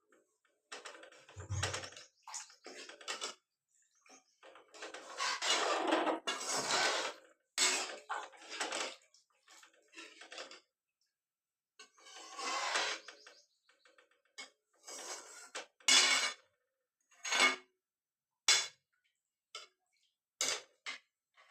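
Kitchen utensils clattering and scraping against cookware in irregular short bursts, with sharp clinks and pauses between.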